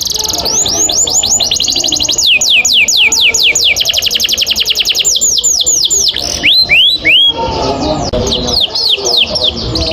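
Domestic canary singing long rolls: rapid runs of falling whistled notes repeated many times a second. The song breaks briefly about five seconds in, gives a few slower notes, then rolls again.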